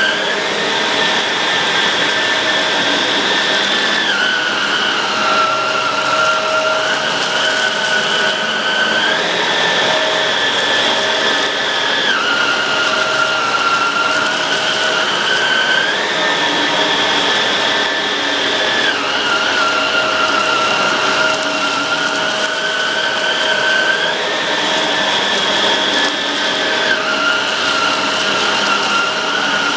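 Shark Rotator Pro Lift-Away NV500 vacuum cleaner running steadily, its motor whine stepping up and down in pitch every few seconds.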